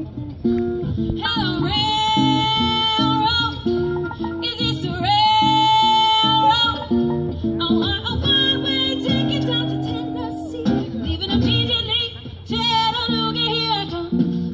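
Live music: the introduction to a swing song, with guitar and bass plucking a steady rhythm and long held notes over it, two early ones each lasting about a second or more.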